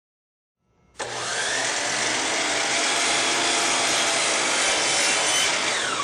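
DeWalt miter saw starting about a second in and running as its blade cuts through wooden base molding. Near the end the motor is let off and winds down with a falling whine.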